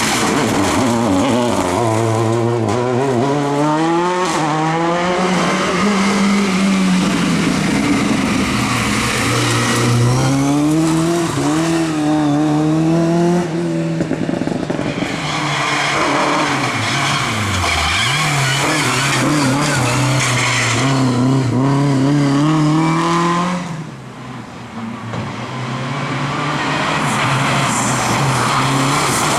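Rally car engines revving hard on a special stage, the pitch climbing through each gear and dropping at every shift, again and again. About 24 seconds in the sound falls away briefly, then builds up again.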